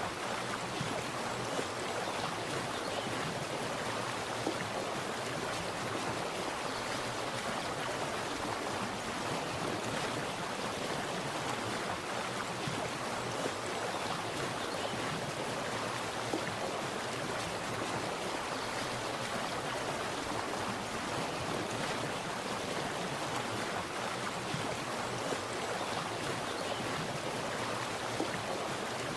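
Water splashing and running steadily, an even rush with small splashes and no pauses.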